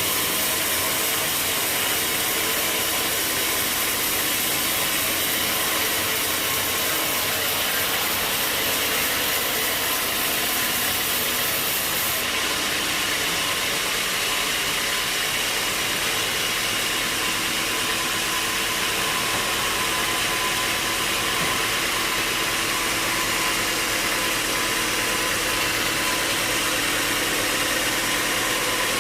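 Sawmill machinery running: a steady engine drone with a constant hiss. There is an abrupt change in the hiss about twelve seconds in.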